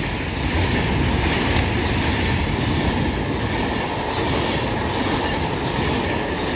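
Class 390 Pendolino electric train passing at speed on the main line: a steady, loud rush of wheels on rail and air.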